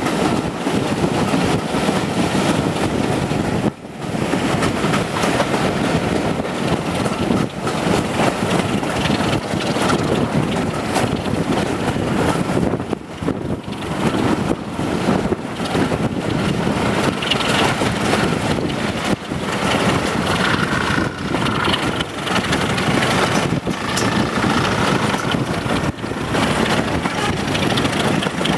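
Moving train heard from a carriage window behind Class 26 diesel-electric 26007: a steady rush of wind on the microphone and the rumble of the coach running along the track, with the locomotive's Sulzer diesel engine working up front.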